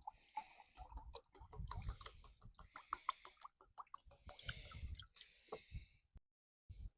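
Faint rustling and a dense run of small clicks and crackles, like close handling of gear or twigs, broken off twice by sudden silence near the end.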